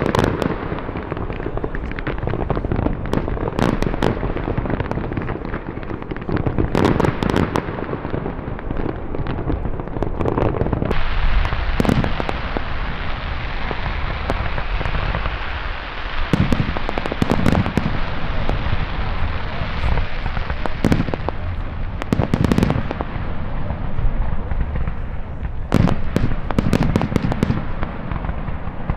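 Fireworks display: a dense run of bangs and booms with sharp cracks. From about a third of the way in, a thick layer of crackling hiss builds up under the bangs.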